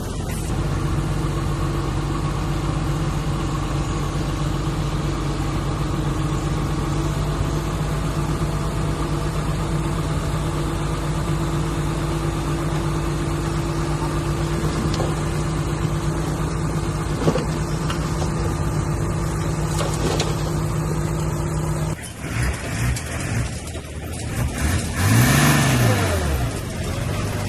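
Heavy diesel engine running steadily at constant speed. About 22 seconds in the sound changes, and a few seconds later the engine revs up and back down.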